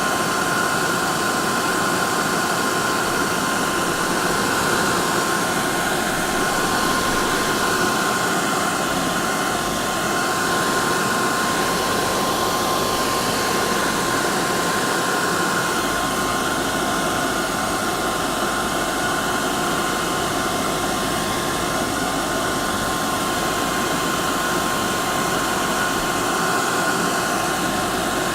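Hair dryer running steadily: a constant rush of air with a steady whine from the motor and fan.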